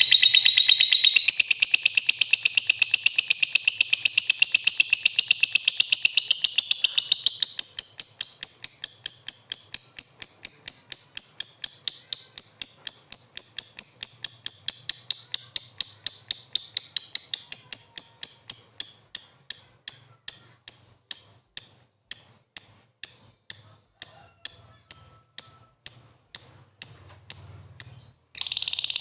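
Lovebird giving a long run of high, evenly repeated chirps, rapid at first and slowing steadily to about two a second near the end.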